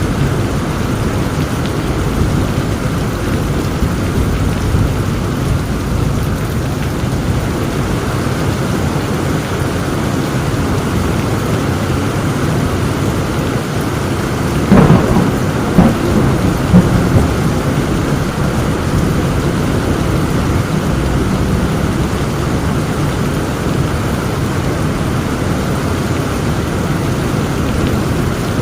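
Heavy thunderstorm: steady heavy rain over a low rumble of thunder. About fifteen seconds in comes a sharp, loud crack of thunder, followed by a few more cracks over the next two seconds before the rain settles back.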